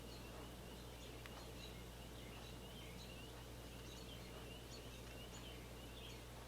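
Faint room tone with a steady low hum, and soft, high bird chirps repeating throughout.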